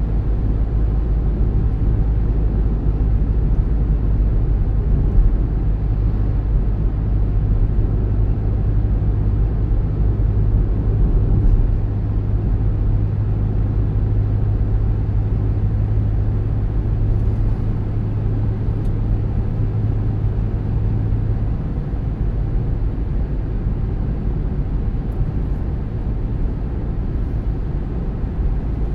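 Car driving on a road: a steady low rumble of engine and tyres, which eases off a little about two-thirds of the way through.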